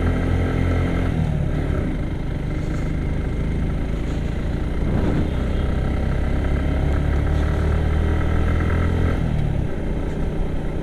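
Suzuki Gixxer SF single-cylinder motorcycle engine pulling in first gear up a steep climb. Its pitch drops about a second in and again near the end.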